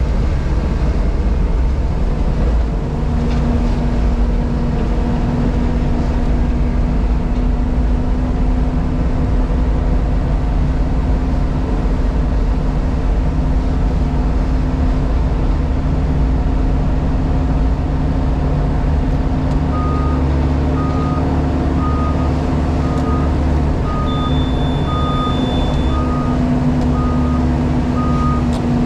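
Diesel engine of a JCB Pothole Pro running steadily, heard from inside the cab, with a steady hum that joins in a few seconds in. About two-thirds of the way through, a reversing alarm starts beeping, about once a second.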